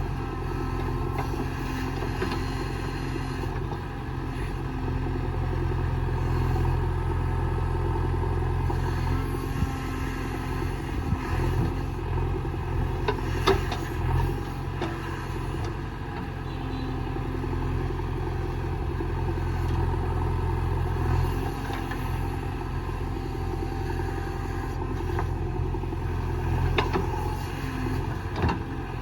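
Diesel engine of a JCB 3DX backhoe loader running steadily, swelling and easing as it takes load while working. A few metal clanks, the loudest about halfway through and again near the end.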